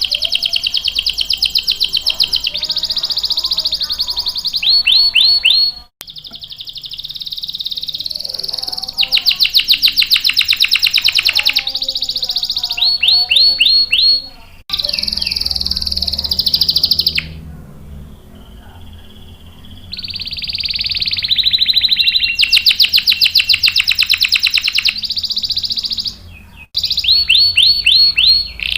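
Domestic canary singing vigorously: long, fast trills (rolls) alternating with short runs of rising chirps. About two-thirds of the way through there is a softer, held whistled note.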